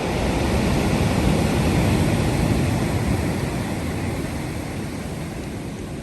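Pacific Ocean surf: a wave washing in, swelling to its loudest about two seconds in, then slowly fading as it draws back.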